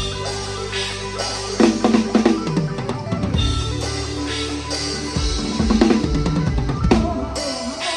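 Live band music led by a PDP acoustic drum kit, with kick drum, snare and rimshot strokes over held bass notes that drop away about five seconds in, recorded on an iPhone 14.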